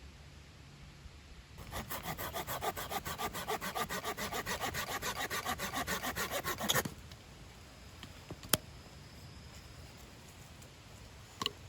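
Hand saw cutting through wood in quick, even back-and-forth strokes for about five seconds, then stopping. A sharp click follows a moment later.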